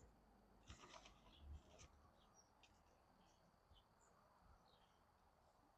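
Near silence outdoors: faint scattered bird chirps over a faint steady high hum, with a few soft small ticks.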